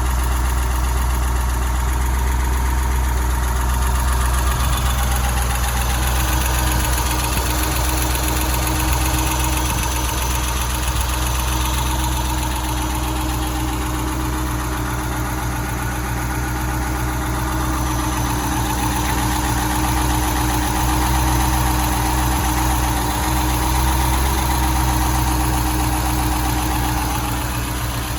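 1970 Mercedes-Benz 280SE 3.5 Coupe's 3.5-litre V8 idling steadily.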